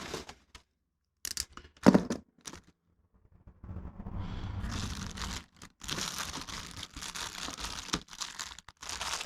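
Parts packaging being torn open and crinkled by hand: a few sharp rips early, then a longer stretch of rustling and crinkling with brief pauses.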